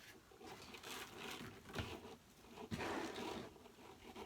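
Faint, irregular rustling and crinkling of deco mesh and ribbon as the wreath is handled and the bow's wire is worked through to the back, with a louder patch about two seconds in and another around three seconds in.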